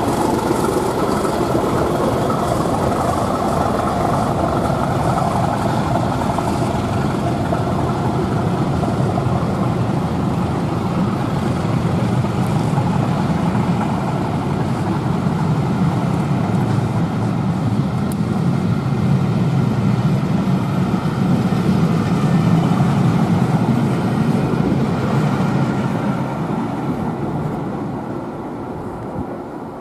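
Class 37 diesel locomotive's English Electric V12 engine working as it departs, a steady heavy diesel drone that swells a little and then fades away near the end.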